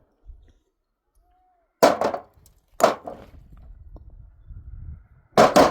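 Sharp knocks of hard objects striking, three times: once about two seconds in, again a second later, and a quick double near the end, each ringing briefly.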